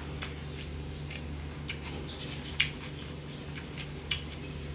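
Close-up mouth sounds of a man eating smoked pork and rice with his fingers: wet chewing and scattered lip-smacking clicks, the sharpest smack about two and a half seconds in. A steady low hum runs underneath.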